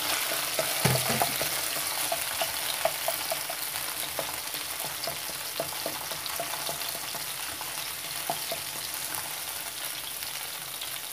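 Chopped garlic sizzling in hot oil in a non-stick wok, a steady hiss with scattered small crackles, stirred with a wooden spoon; a low knock about a second in.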